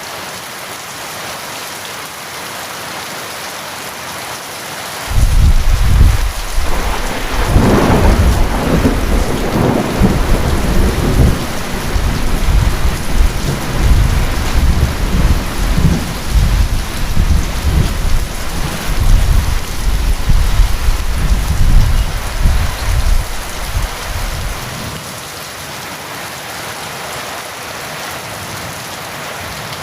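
Steady heavy rain with a long roll of thunder: a sudden deep crack about five seconds in, rumbling on for some twenty seconds before dying away, leaving the rain alone near the end.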